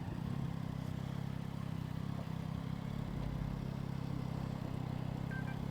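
Motorcycle engine running at a steady pitch, picked up by a microphone mounted on the rider's helmet just below the chin.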